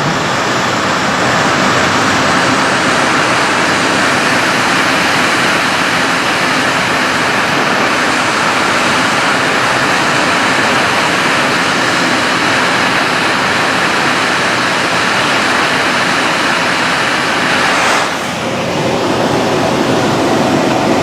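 Steady rush of airflow over a motor glider gliding with its engine shut off, heard from inside the cockpit; it dips in level and changes tone briefly near the end.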